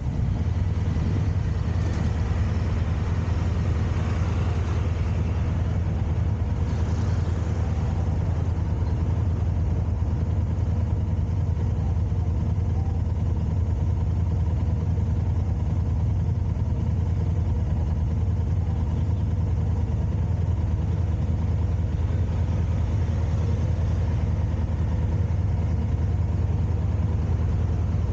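Car engine and road noise: a steady low rumble throughout, with a slightly louder wash of higher noise a few seconds in.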